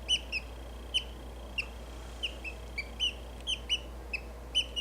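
Budgerigar chick peeping: about a dozen short, sharp chirps at an uneven pace of two or three a second.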